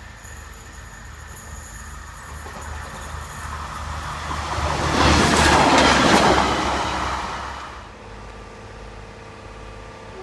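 A diesel multiple-unit train passing close by: wheel and rail noise swells to a loud peak about halfway through and fades away within a few seconds, over a low steady rumble.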